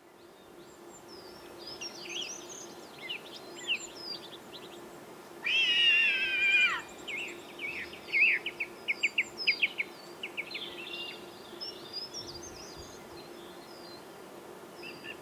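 Wild birdsong fading in: many short chirps and trills with a quick run of repeated notes, and one longer, wavering call about six seconds in that drops in pitch at its end, the loudest sound. A faint steady low hum lies underneath.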